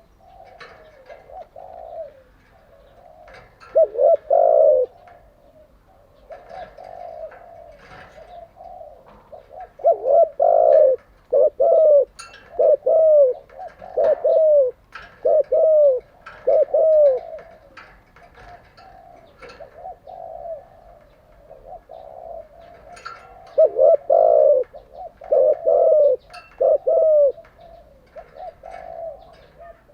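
Spotted dove cooing: phrases of low, rounded coos repeated over and over, with loud runs about four seconds in, from about ten to seventeen seconds, and again around twenty-four to twenty-seven seconds, and softer cooing in between.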